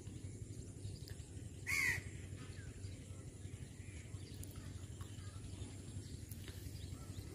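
A bird calls once, briefly, about two seconds in, over a steady low rumble, with a few faint chirps after it.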